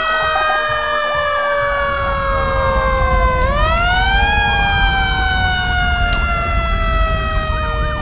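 Fire engine siren wailing, its pitch sliding slowly down, sweeping back up once about three and a half seconds in, then sliding down again, over a low rumble.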